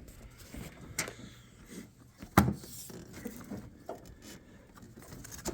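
Faint rubbing and scattered knocks as a rubber vacuum hose is worked through a tight spot in a car's engine bay, past a clip it was catching on. The loudest knock comes about two and a half seconds in.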